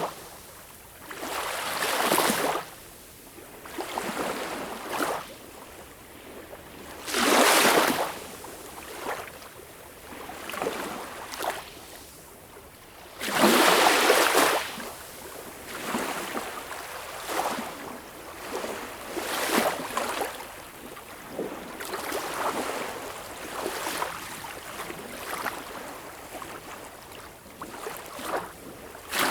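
Sea waves washing in and drawing back, each surge rising and fading over a second or two at uneven intervals. The biggest surges come about 7 seconds in and again around 13 to 14 seconds.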